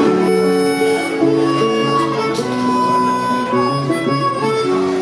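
Live band music: a harmonica playing held and bending notes over plucked-string accompaniment in an afro-blues groove.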